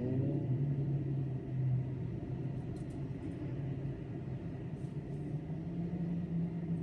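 Low, steady rumble and hum of a large idling engine, with a short rising whine at the start and a few faint high clicks around the middle.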